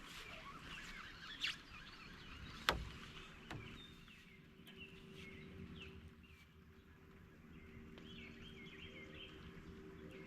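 Birds chirping and calling outdoors, with a sharp knock about three seconds in and a faint steady hum after it.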